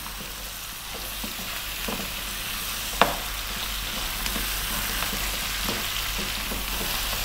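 Lamb pieces, onion and carrot chunks sizzling steadily in a hot non-stick frying pan while a wooden spatula stirs them, with scattered light knocks and scrapes against the pan and one sharper knock about three seconds in.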